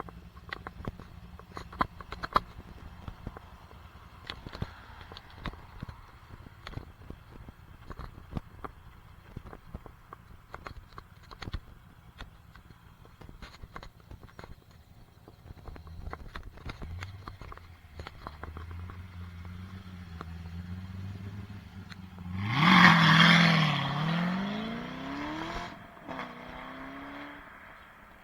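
Chevrolet Corvette Z06's V8 exhaust running at a low steady note, with many small clicks and scrapes over it. About 22 seconds in the engine revs hard under acceleration: a loud rising exhaust note, the loudest sound here, which then drops and climbs once more before fading near the end.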